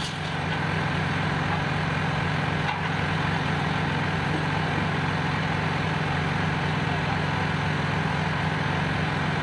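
Steady drone of machinery running in a ship's engine room: a constant low hum that holds one pitch, with no change in speed.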